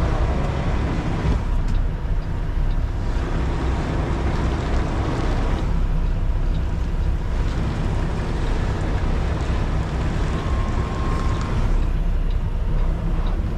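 Kenworth T680 semi-truck's diesel engine running at low speed, a steady low rumble, while the tractor-trailer maneuvers to back into a dock.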